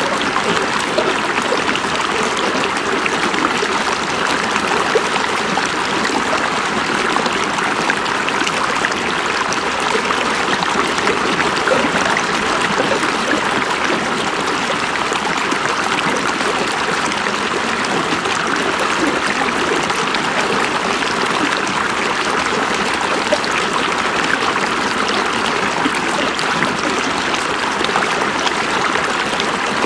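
River water flowing over stones, a steady, even rush and babble without breaks.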